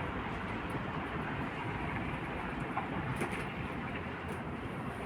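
Strong wind blowing and howling in a steady rush, with a few faint ticks now and then.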